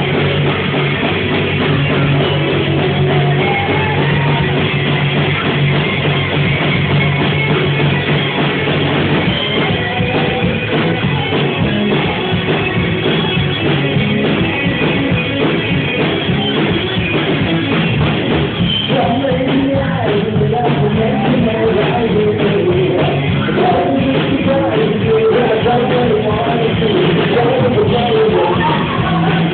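Rock band playing live with singing, recorded from the room with poor, muffled sound quality.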